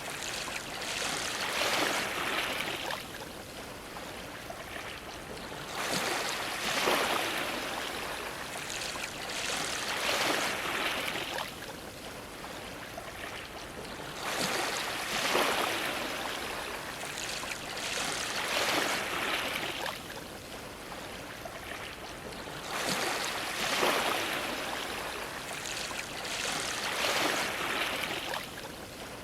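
Sea waves washing against a dock. The water rushes in a surge every three to four seconds and ebbs between them.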